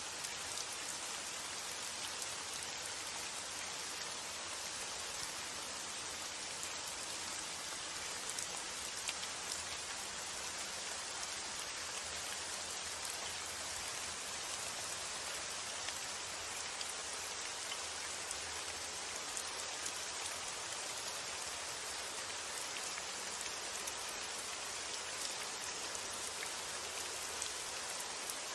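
Steady rain falling, a continuous hiss with fine ticks of individual drops.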